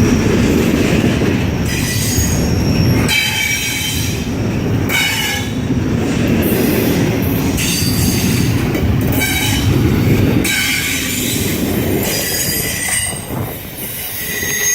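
Freight train cars rolling past close by: a steady heavy rumble of steel wheels on the rails, with high-pitched wheel squeal coming and going. The rumble thins out about ten seconds in.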